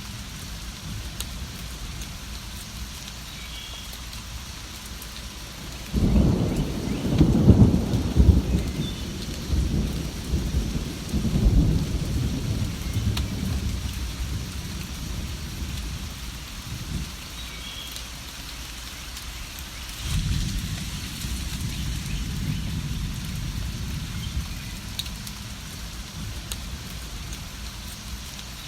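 Steady rain with two rolls of thunder. The first starts abruptly about six seconds in and rumbles for about six seconds; the second is softer and starts about twenty seconds in.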